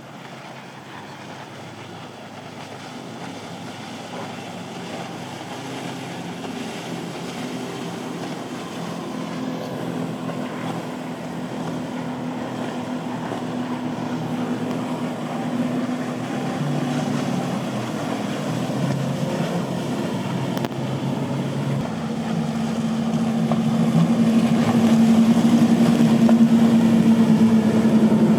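Motorboat engines running with a steady drone that grows louder and louder as the boat comes closer, loudest near the end.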